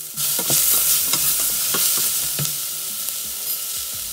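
Shallots and ground garlic-ginger sizzling in hot coconut oil in a stainless steel saucepan while a wooden spatula stirs them, scraping and knocking against the pan. The sizzle gets louder just after the start.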